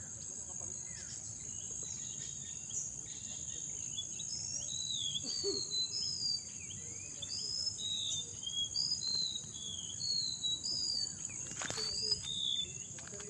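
Steady high-pitched insect chorus, like crickets, with a songbird singing a run of short whistled, slurred notes from about four seconds in until near the end.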